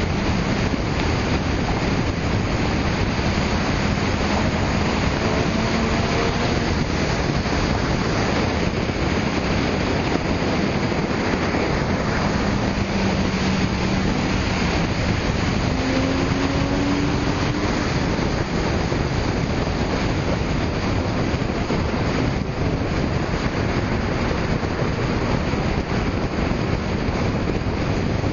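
Steady wind rush on the microphone over car engines, whose tones rise and fall underneath a few times as they rev.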